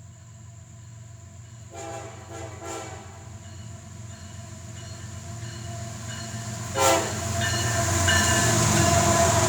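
Diesel freight locomotive approaching and sounding its horn: a few short horn blasts about two seconds in and another sharp short blast near seven seconds. Under them the low engine rumble and train noise grow steadily louder.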